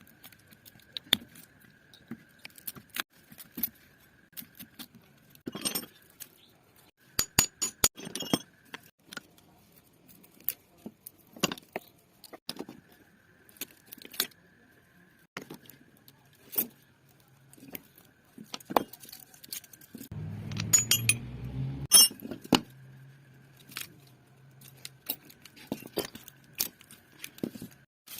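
Metal parts of a washing-machine motor being handled, with scattered sharp clinks and clicks throughout. About two-thirds of the way through comes a short louder rumble, followed by a steady low hum.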